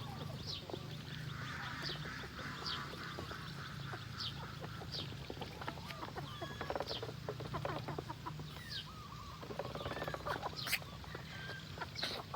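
Mixed farmyard poultry calling: chickens clucking among geese and ducks, with short high falling peeps repeating about once a second.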